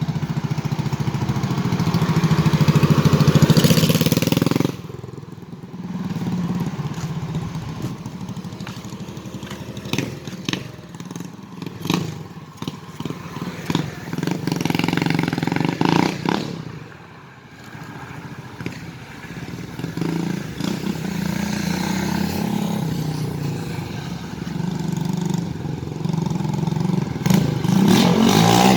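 Honda TMX 155 single-cylinder motorcycle engine running, building louder over the first few seconds, then dropping off suddenly. It carries on at varying speed with scattered clattering knocks.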